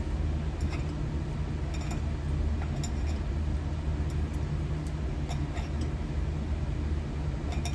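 Metal-melting furnace running with a steady low hum, with a few faint, scattered clicks over it.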